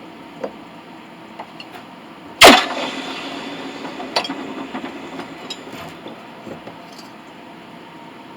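One loud sharp knock about two and a half seconds in, with a ringing tail that dies away over a couple of seconds, followed by a few lighter clicks and knocks.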